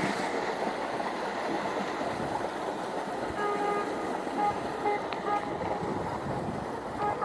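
Steady outdoor noise, like wind and distant traffic. About halfway in, a short beeping tone starts and repeats roughly twice a second.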